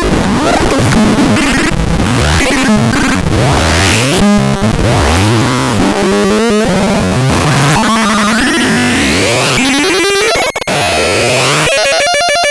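Harsh electronic noise from a synthesizer: loud, distorted pitched tones sliding up and down over dense noise, breaking into a rapid stuttering of clicks near the end.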